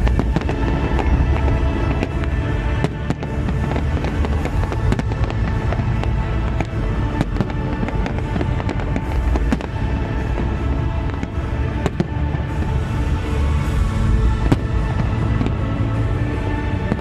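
Fireworks display in full swing: a dense run of sharp cracks and deep booms in quick succession over a steady low rumble, with loud show music with sustained tones playing underneath.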